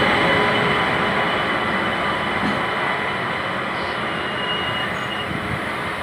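Running noise of two passenger trains moving side by side on parallel tracks: a steady rush and rumble of steel wheels on rail with a faint thin whine, slowly getting quieter.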